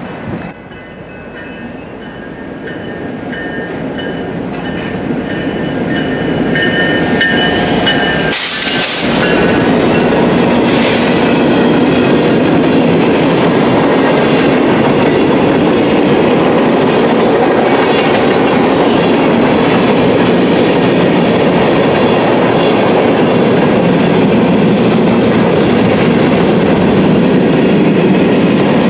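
Freight train of covered hopper and gondola cars rolling past close by: a steady rumble and clatter of wheels on the rails that grows louder over the first ten seconds and then holds. Thin, high wheel squeal sounds over the first several seconds.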